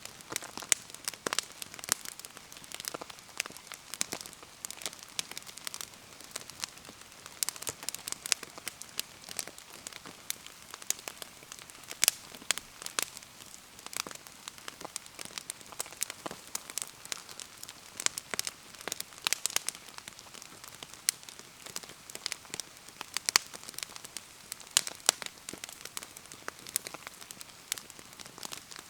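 Wood bonfire crackling with irregular sharp pops and snaps, over a steady patter of falling rain.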